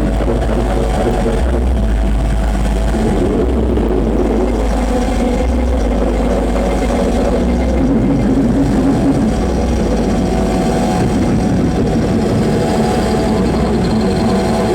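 Live noise music played through a PA: a loud, unbroken wall of low, rumbling distorted sound with a few faint held tones above it.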